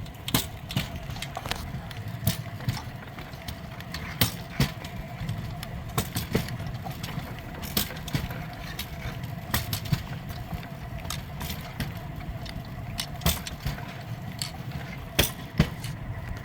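Rail bike rolling along steel rails: a steady low rumble and a faint steady hum from the wheels, with frequent irregular clicks and rattles.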